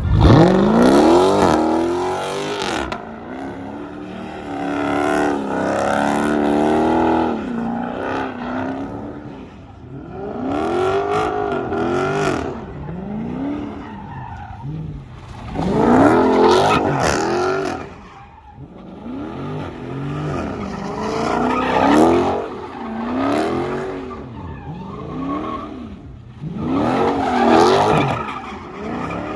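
A car doing a burnout: the engine revs up and falls back in repeated surges every few seconds, with the tires squealing as they spin.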